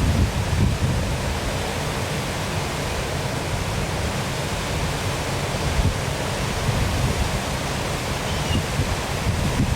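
Waterfall running: a steady, unbroken rush of falling water, heaviest in its deep low end.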